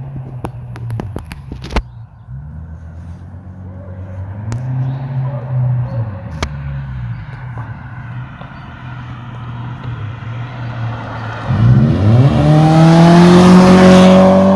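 Exhaust of a 2006 Subaru Impreza 2.5's non-turbo flat-four through a Flowmaster HP-2 muffler: idling, a short rev about five seconds in, then revved hard near the end and held high, the loudest part. A few sharp clicks in the first two seconds.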